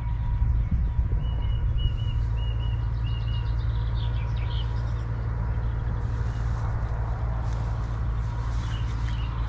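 Small birds chirping outdoors, with a run of short, evenly repeated high notes in the first few seconds and scattered chirps later, over a steady low rumble.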